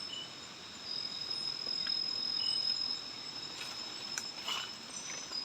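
Night insect chorus of crickets, a steady high-pitched trill with a few short chirps over it. A few soft crackles come in the middle.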